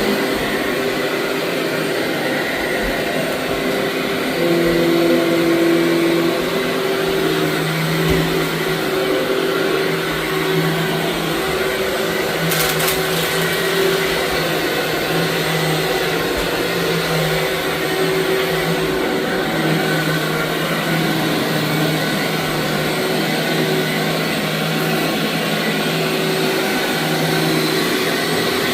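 Vacuum cleaner running steadily over a dirty rug, its motor hum wavering slightly in pitch. There is one short sharp click about twelve seconds in.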